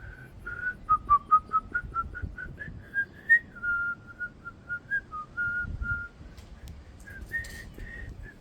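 A rapid run of short whistled notes, about three or four a second, wandering up and down in pitch, with a brief burst of noise near the end.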